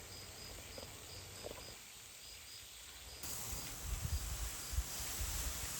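A garden hose starts spraying water onto the trees about three seconds in, a steady hiss with some low bumps. Behind it, faint insect chirps repeat about three times a second.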